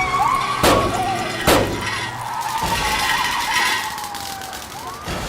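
Police car siren wailing, each cycle falling slowly in pitch and then sweeping quickly back up, twice. Two sharp crashes come within the first two seconds, under a second apart.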